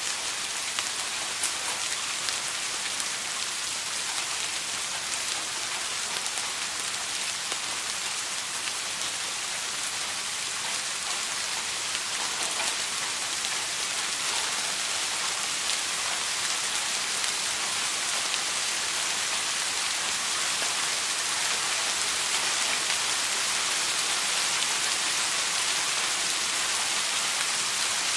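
Steady rain falling, an even hiss with scattered drop ticks on a surface, growing slightly louder over the stretch.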